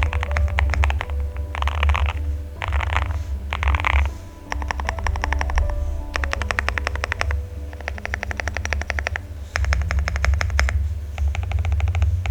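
Fast typing on a fully foamed Cycle7 custom mechanical keyboard with Vertex switches: thocky keystrokes in quick runs with short pauses between them, over background music.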